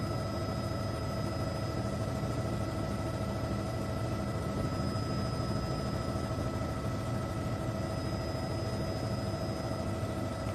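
A steady mechanical drone with constant whining tones above it, unchanging throughout.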